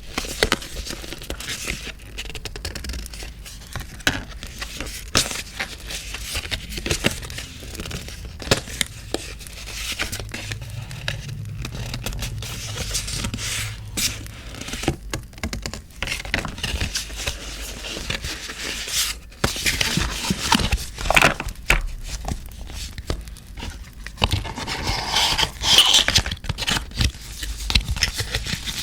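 Paper and postcards being handled close up for journaling: rustling, crinkling, sliding and scraping with occasional tearing, full of small irregular crackles. The handling grows busier and louder in the last third. A crackling campfire sound plays underneath.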